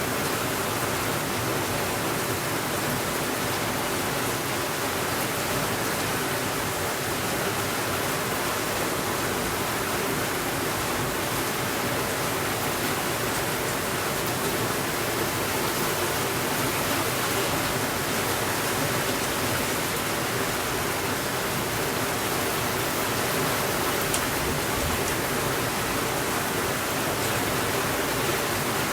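Heavy rain falling steadily on a window, an even hiss with faint scattered ticks from individual drops or a fireplace crackling beneath it.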